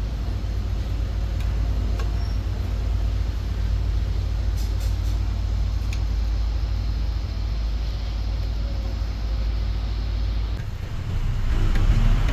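Steady low mechanical rumble, growing louder about eleven seconds in.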